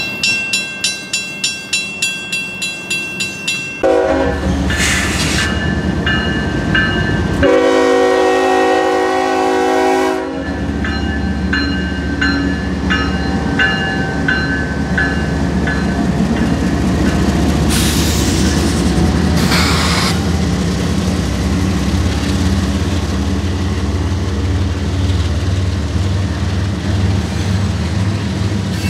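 Grade-crossing bell ringing about three times a second, then a diesel locomotive horn sounding twice, the second a long blast, as a Norfolk Southern freight led by GE ES44AC heritage unit 8100 passes the crossing. The crossing bell rings on under the horn, then the locomotive and freight cars keep up a steady low rumble.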